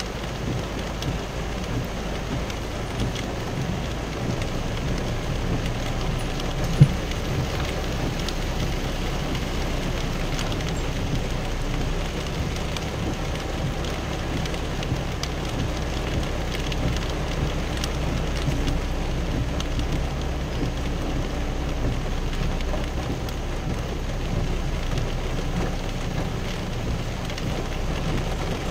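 Heavy rain drumming steadily on a pickup's roof and windshield, heard from inside the cab, over a low steady vehicle rumble. A single thump about seven seconds in.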